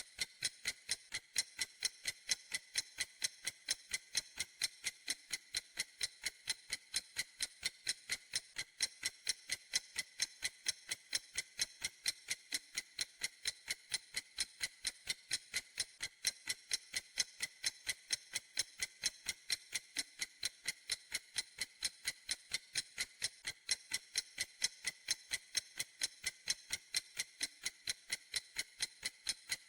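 A clock ticking steadily in an even, unbroken rhythm of sharp, high-pitched ticks.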